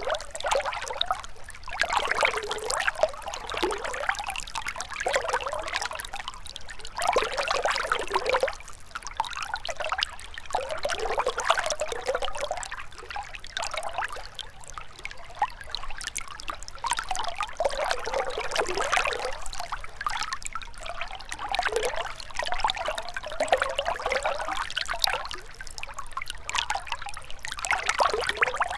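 Gentle river water trickling and babbling over stones, its splashing swelling and easing every second or two.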